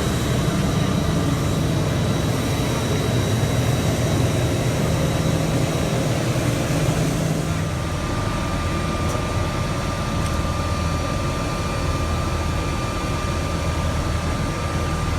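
Steady drone of an Airbus A319 cabin on the ground, with the engines and air-conditioning humming. About halfway through, the low hum shifts and a new steady tone comes in.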